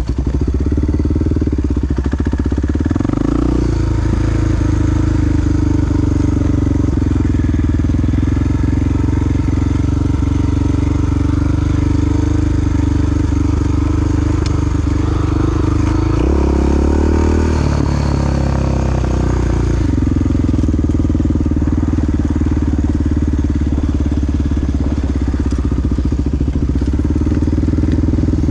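Honda XR big single-cylinder four-stroke dual-sport motorcycle engine running under way, a steady loud note. Its pitch changes about three seconds in and again for a few seconds past the middle, as the revs shift.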